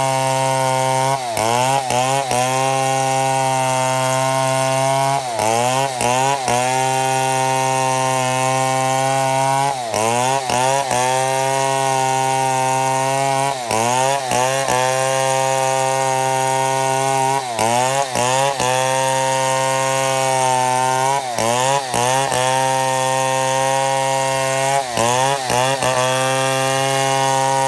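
Chainsaw running under load as it rips lengthwise through a mahogany log to mill lumber. The engine holds a steady high pitch that sags briefly and recovers about every four seconds.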